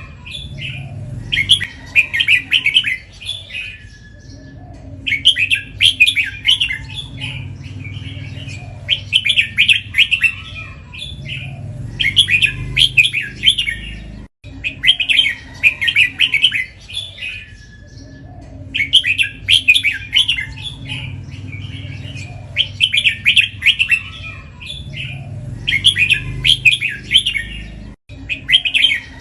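Red-whiskered bulbul singing, repeating a short rapid warbling phrase every three to four seconds, over a steady low hum.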